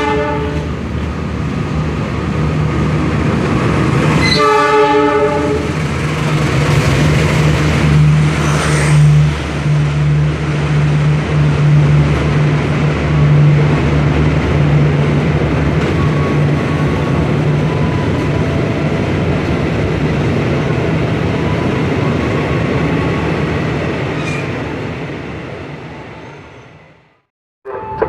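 A long-distance passenger train running through a station at speed. There is a horn blast about four seconds in, then a steady engine drone and the rumble and clatter of the carriages going past, fading away near the end.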